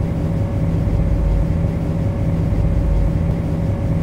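Steady low hum and rumble of an MTR C-Train's onboard equipment, heard from the driver's cab while the train stands at a platform with its doors open.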